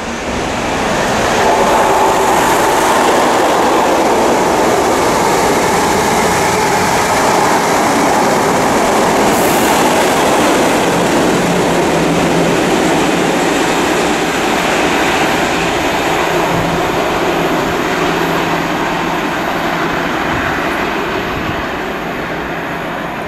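Diesel locomotive-hauled passenger train running through the station: loud continuous wheel and rail noise that builds within the first couple of seconds and holds, with a steady low diesel engine note joining about halfway through.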